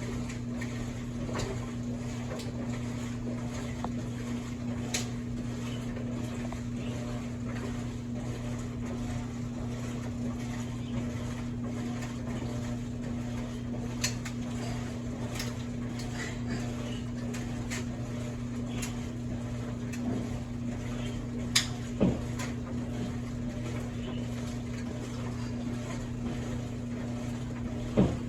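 Kenmore laundry machine running: a steady motor hum, with a few sharp clicks and knocks now and then, the loudest pair a little past the middle and another near the end.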